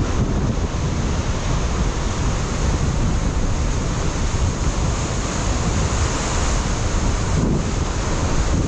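Ocean surf breaking on a rocky coastline, a steady rush of water with a deep low rumble, mixed with wind buffeting the microphone.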